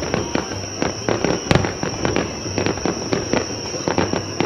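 Fireworks crackling: a dense, irregular run of small sharp pops, with one sharper pop about a second and a half in. A steady high-pitched tone runs underneath.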